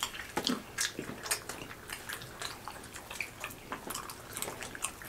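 People chewing and smacking on chicken wings: a run of irregular wet mouth clicks and small bites.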